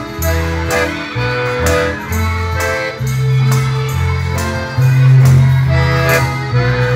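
Accordion playing a tune with guitar accompaniment: sustained reed chords over bass notes, with a steady beat.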